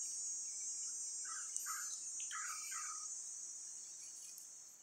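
Steady high-pitched trilling of insects, with four short bird chirps in the middle; the whole sound fades away toward the end.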